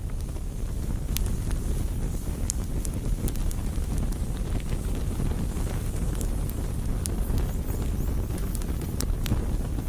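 Campfire burning: a steady low roar of flames with sharp, irregular crackles and pops of burning wood.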